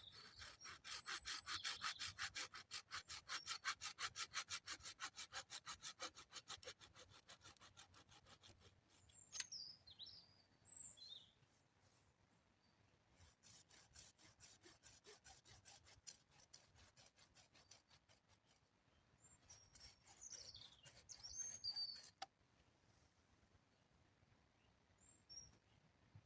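Hand saw cutting wood in quick, even strokes, about three to four a second. The strokes are loudest for the first several seconds, then grow fainter and stop about twenty-two seconds in.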